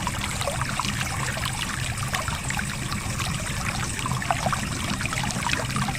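Stream water trickling and splashing over rocks: a steady rush with many small droplet plinks.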